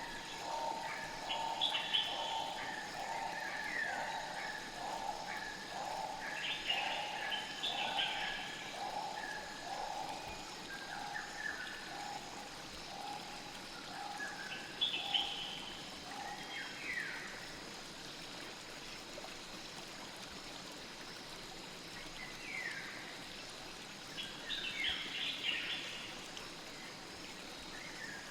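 Forest ambience of a flowing river, a steady rush of water, with birds calling over it: a run of low repeated notes, about one and a half a second, that fades out about halfway through, and clusters of short, high, down-sweeping chirps.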